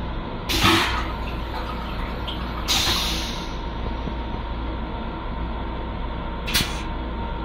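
Steady running rumble of a Long Island Rail Road M7 electric railcar, heard inside its small restroom. It is broken by three short hisses: the loudest about half a second in, another around three seconds in and a brief one near the end.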